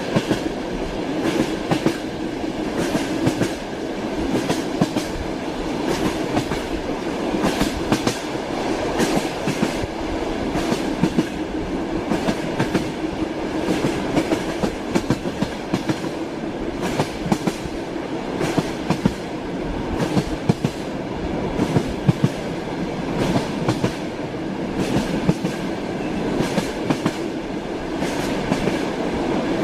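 Train wheels clattering over the rails of a moving train: a steady rumble with frequent, unevenly spaced clacks and knocks, heard from inside a railway carriage.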